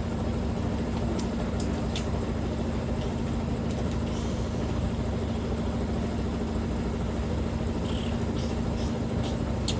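Washing machine spinning at full speed in the spin cycle: a steady hum with one constant tone held throughout, and a few faint light ticks.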